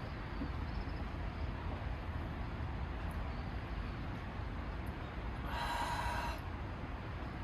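Steady rain noise falling on a campsite during a heavy downpour. About five and a half seconds in comes a short, pitched sound lasting under a second.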